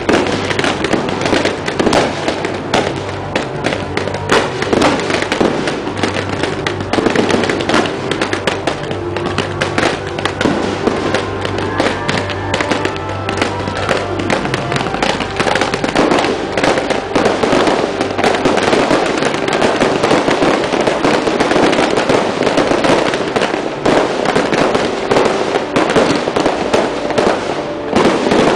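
Fireworks going off at close range: a dense, continuous stream of bangs and crackling bursts, with music playing underneath.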